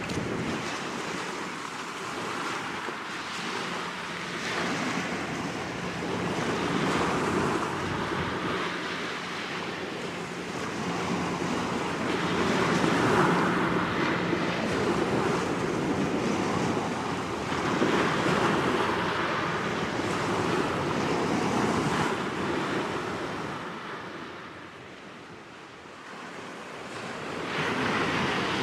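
Wind rushing over the microphone and small waves washing on the shore, swelling and easing every few seconds, with a faint steady low hum underneath for much of the time.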